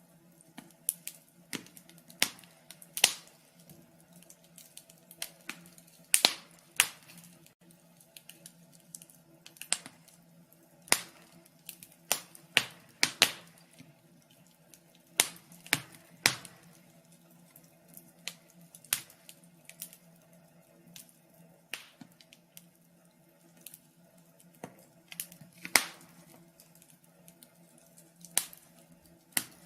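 Wood fire crackling: irregular sharp pops and snaps, roughly one or two a second, over a faint steady low hum.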